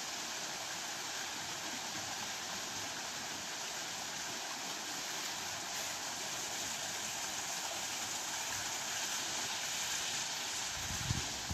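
Waterfall and stream water rushing over rocks, a steady hiss, with a brief low bump near the end.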